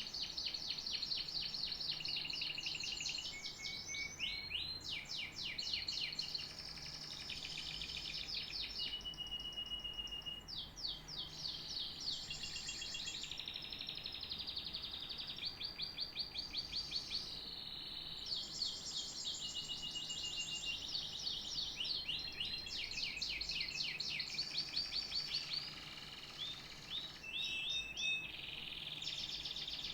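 Canary singing a long continuous song of fast trills of rapidly repeated notes, rolling phrases and short held whistles, one phrase running straight into the next.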